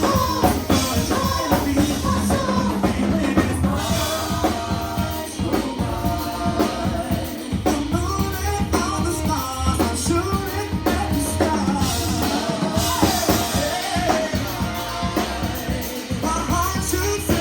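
A live rock band playing with a singer over drum kit and bass.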